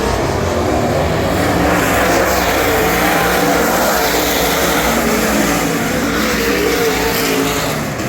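Super late model race car's Ford 422-cubic-inch V8 running hard, heard from on board. It is loud and continuous, its pitch wavering up and down as the throttle comes on and off.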